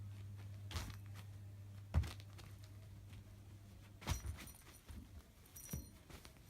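Kitten moving about in its pet cage: a few sharp knocks and thumps, the loudest about two seconds in, over a low steady hum that stops about four seconds in.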